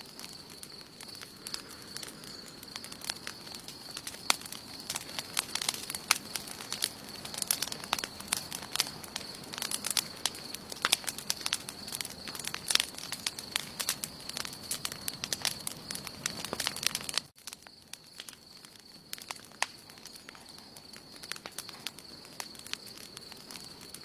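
Wood campfire crackling, with dense sharp pops and snaps that thin out after a sudden cut about two-thirds of the way through. A steady high-pitched tone runs beneath.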